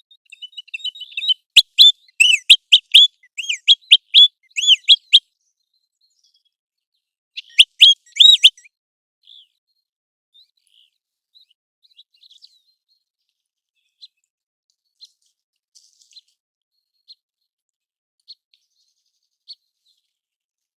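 American golden plover calling: a rapid run of loud, high whistled notes, each curving in pitch, for about four seconds, a second shorter run near the middle, then faint single notes about once a second.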